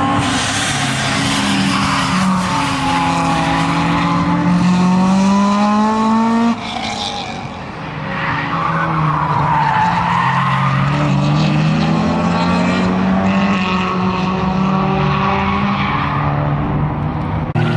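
Race car engines on a road course, revving up and falling back as the cars accelerate and lift through the corners. The sound drops suddenly about six and a half seconds in, then builds again.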